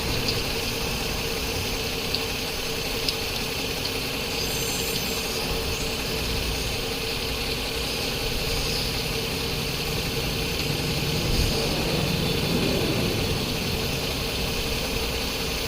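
A motor running steadily with a constant hum, a few faint clicks about three seconds in.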